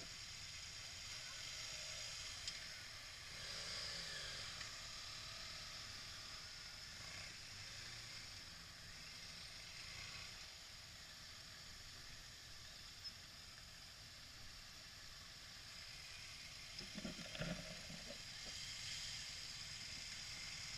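Faint steady hiss of wind and road noise while riding a motorcycle, with a short low sound late on.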